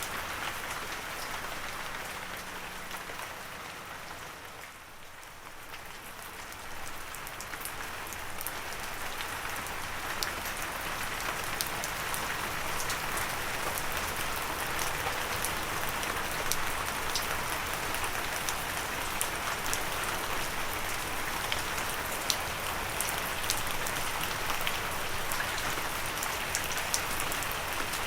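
Steady gentle rain: an even hiss with individual drops ticking. It dips quieter about five seconds in, then swells back and grows a little louder, with sharper drop ticks in the second half.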